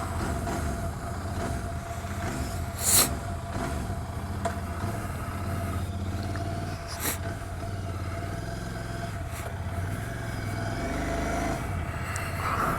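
Vehicle engine idling steadily with a low, even hum, and two sharp clicks, the first about three seconds in and the second about seven seconds in.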